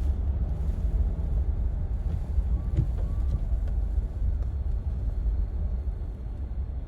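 Steady low rumble of a Jeep driving, engine and road noise heard from inside the cabin.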